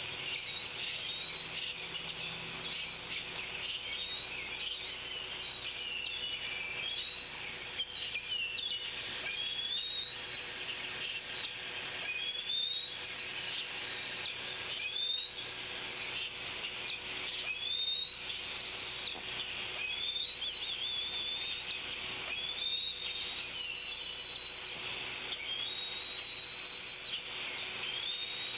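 Outdoor bird calls: a high whistled call that rises and then holds, repeated about every two seconds over a dense background of other birdsong.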